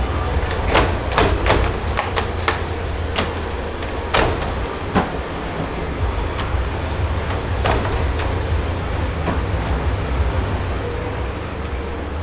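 Dishes and utensils clattering and knocking over a steady low machine hum in a dish pit. The clatters come thick in the first five seconds, with one more sharp knock near eight seconds.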